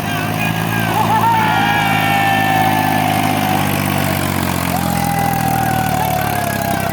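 Heavy diesel engine running steadily at a constant speed, with a high whine over it that wavers in pitch about a second in and again about five seconds in.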